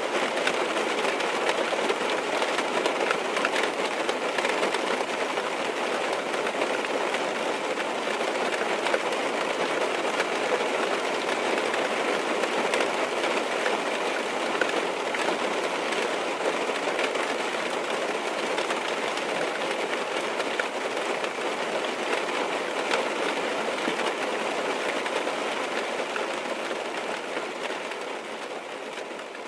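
Steady rain drumming on a car's roof and windows, heard from inside the car as a dense patter of drops, fading out near the end.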